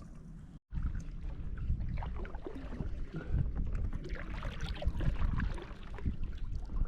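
Water splashing and sloshing around a kayak, with a low rumble under it. The sound cuts out completely for a moment about half a second in.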